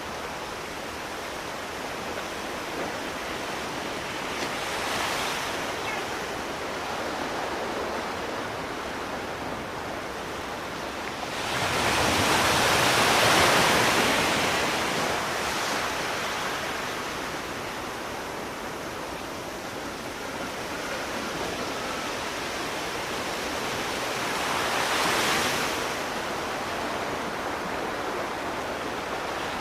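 Sea waves washing onto a shore: a steady surf wash that swells as waves break, the biggest about twelve seconds in, with smaller ones near five and twenty-five seconds.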